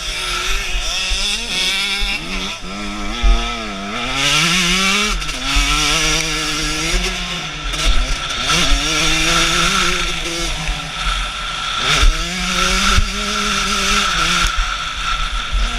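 Husqvarna TC 125 two-stroke motocross engine under way, its pitch repeatedly climbing and then dropping sharply as the throttle is opened and shut, with short low thumps scattered through.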